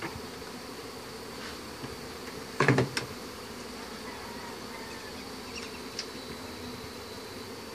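Honey bees buzzing steadily in a dense swarm, with one brief loud thump a little under three seconds in.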